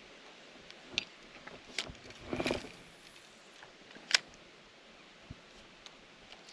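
Scattered footsteps and knocks on rock with small clinks of carried gear: a few light clicks, one longer scuffing step, and a sharp click about four seconds in.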